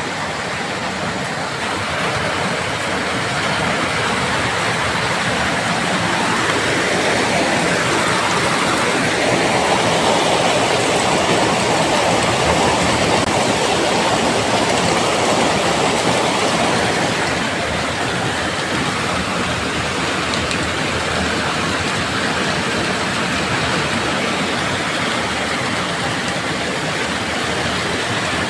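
Heavy rain falling steadily, a dense even hiss that swells louder for several seconds in the middle and then eases back.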